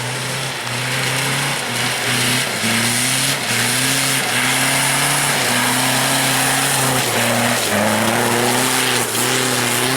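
Off-road 4x4 engine held at high revs under full throttle, climbing a loose-stone slope. Its pitch steps and dips briefly now and then, over a steady rushing noise.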